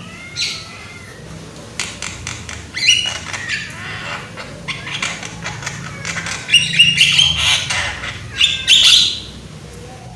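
Javan myna calling: a run of harsh squawks and chattering notes mixed with short whistles, with the loudest, densest calling in the second half.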